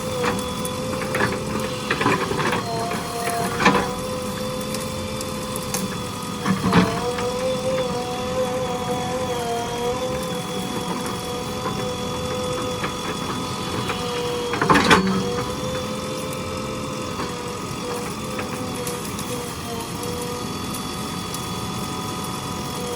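JCB 3DX backhoe loader's diesel engine and hydraulics running steadily with a whine. The pitch sags briefly a few times as it takes load, and there are a few sharp knocks, the loudest about 15 seconds in.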